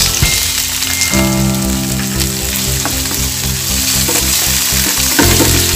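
Sliced pickled bilimbi frying in hot sunflower oil in a pan with sautéed onion, ginger and tomato paste: a steady, loud sizzle, with background music under it.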